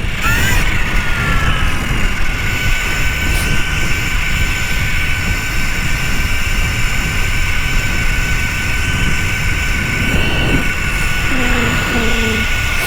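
Electric dirt bike riding along, its motor giving a steady high whine that dips just after the start and then holds, under a heavy rumble of wind on the microphone.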